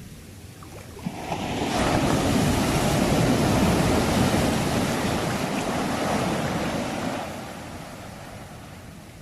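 Sea waves on the shore: a single wave swells about a second in, breaks and washes loudly for several seconds, then draws back to a low hiss near the end.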